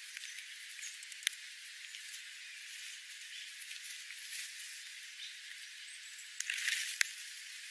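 Steller's jay pecking and hopping on gravel: a few sharp clicks of its beak and feet among the stones, the clearest about a second in and near the end, with a short scuffing rustle just before the last click. A steady hiss lies underneath.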